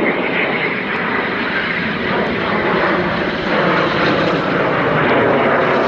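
Jet engine noise from a Eurofighter Typhoon, a steady loud rush that grows slightly louder toward the end.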